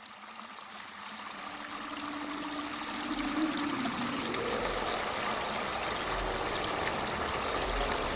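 Running water like a flowing stream, fading in over the first few seconds and then holding steady. A faint held tone sits under it and bends upward about four seconds in.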